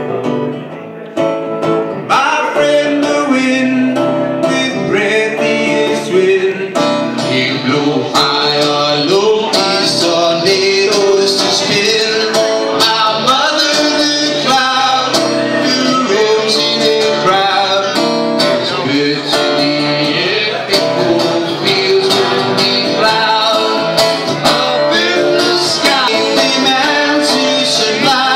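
Guitar-led live band playing a country-rock song, getting fuller and louder about two seconds in.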